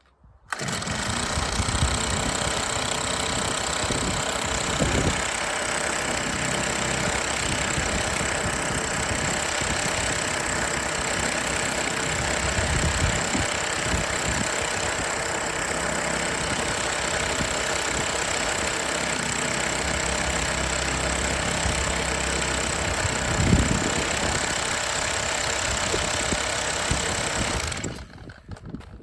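Small petrol engine of an Atom lawn edger running steadily at a constant speed on its newly fitted carburettor, with a couple of brief low knocks along the way. It comes in suddenly at full volume and stops just as suddenly near the end.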